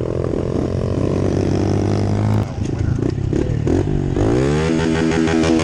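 Pit bike engine running, with a few uneven blips of throttle; just after four seconds in it revs up in a smooth rising whine and holds at a steady higher pitch.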